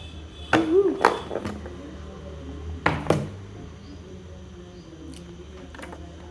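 Glittery bead slime being squished and stretched by hand: scattered sharp clicks and pops, with two louder wet squelches about half a second in and about three seconds in.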